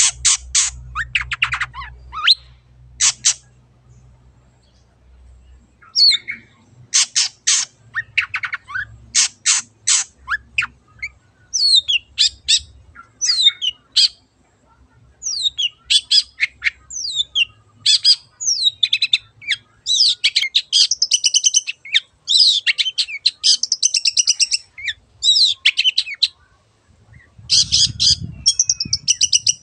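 Long-tailed shrike (cendet) singing: bursts of harsh, rapid chattering mixed with quick whistled notes sweeping up and down. The song pauses for about two seconds a few seconds in and briefly again near the end.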